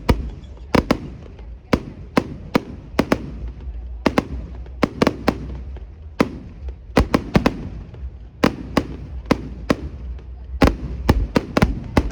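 Fireworks going off: an irregular run of sharp bangs, about two or three a second, over a steady low rumble.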